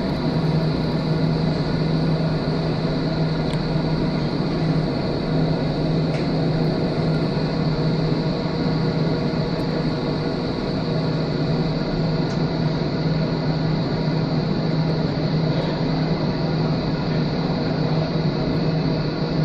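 Container freight train wagons rolling steadily past on the rails, a continuous rumble of wheels with a steady low hum running through it.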